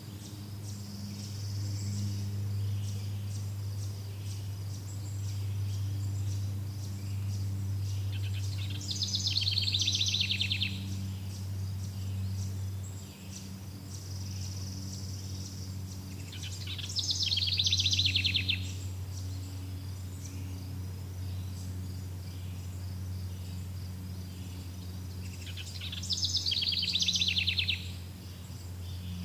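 A songbird singing a short, fast trilled song three times, about every eight or nine seconds, over a steady high chirring of insects and a constant low hum.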